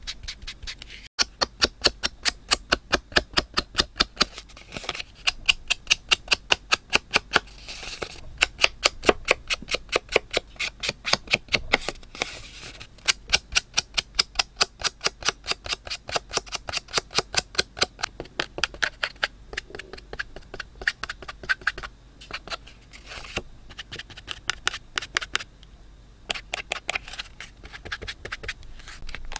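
Rapid, even clicking from a paper-crafting tool, about five sharp clicks a second, in runs broken by short pauses.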